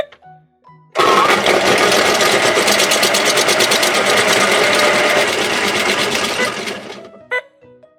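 Pink toy washing machine running its wash cycle: a short beep, then about a second in a loud, fast whirring that fades out near the end, followed by an electronic beep.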